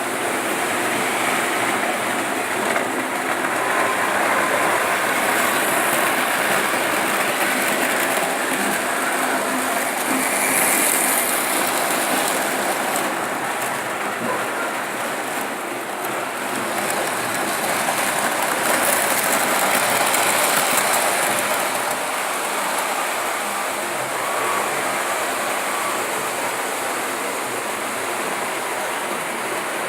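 Märklin model trains running on their track: a steady rumbling whir of wheels and small motors that swells and eases gently.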